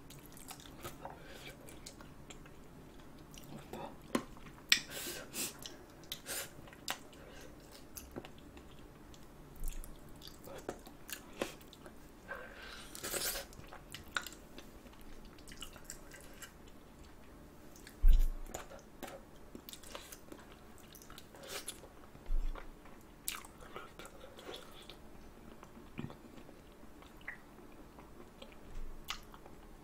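Close-miked chewing and biting on spicy braised chicken feet, with small crunches and clicks as the skin and cartilage are bitten off the bones. A couple of dull thumps stand out, the loudest a little past the middle.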